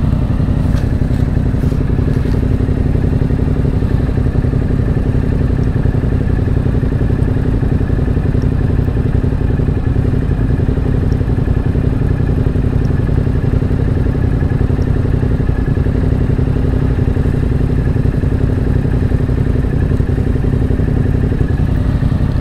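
Yamaha 689 cc parallel-twin motorcycle engine idling steadily, with an even pitch and a heavy low rumble.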